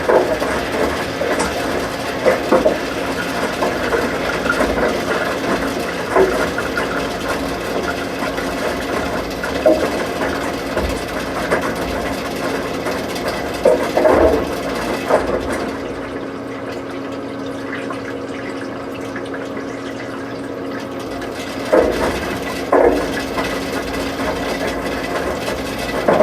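Washing machine running: a steady machine hum with irregular knocks and clunks every second or so. The knocks stop for several seconds past the middle, leaving a quieter steady hum, then start again.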